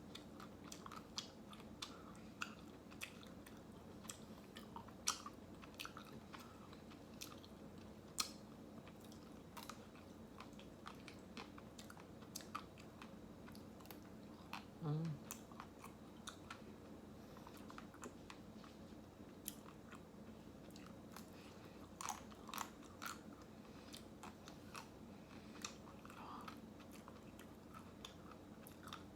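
Close-up eating sounds: a person biting and chewing ice cream, with scattered sharp wet clicks and smacks from the mouth. A short closed-mouth hum comes about halfway through.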